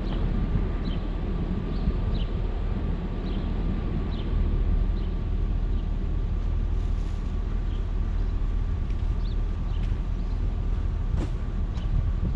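Snow-plow pickup truck running steadily while clearing snow, a continuous low engine rumble with a steady thin whine above it.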